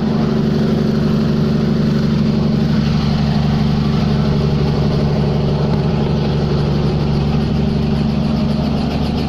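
Helicopter engine and rotor running with a steady, unchanging drone.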